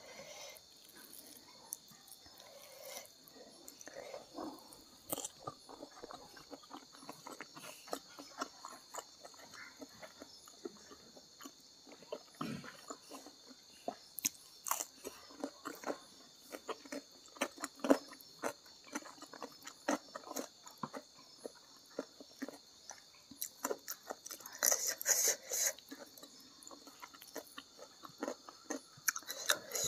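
Close-miked chewing and biting of a hand-eaten meal of rice with salted fish and eggplant balado: irregular wet smacks and crunches, with a steady high hiss underneath.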